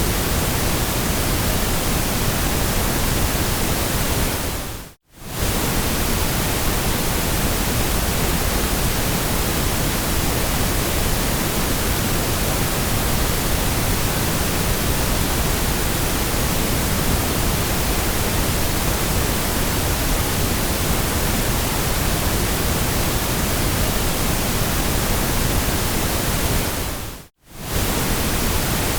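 Steady synthetic white noise, an even hiss across the whole range. It dips briefly to silence twice, about five seconds in and again near the end, like the seams of a looped track.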